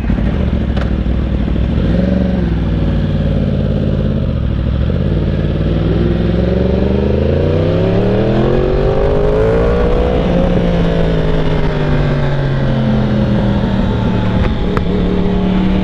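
Sport motorcycle engine and exhaust on the road. The pitch drops about two seconds in, then climbs steadily as the engine revs up to a peak around ten seconds. It eases back down and holds roughly steady near the end.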